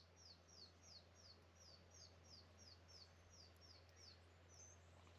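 Faint bird calling: a fast, even series of short, high, falling chirps, about three a second, that stops about four seconds in.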